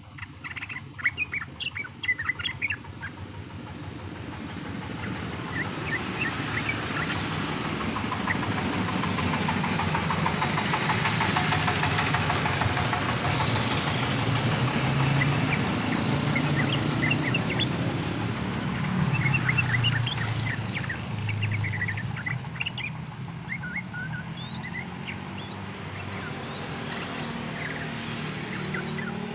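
Yellow-vented bulbuls (trucukan) calling in short, bright chirping phrases, used as a lure recording to get caged birds singing. Behind them a motor's noise swells and fades over some fifteen seconds.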